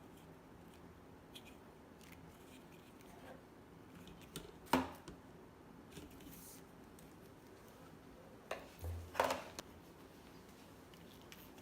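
A few sharp plastic clicks and knocks from vacuum-cleaner parts and attachments being handled. The loudest comes about five seconds in and a small cluster follows near nine seconds, with fainter ticks between.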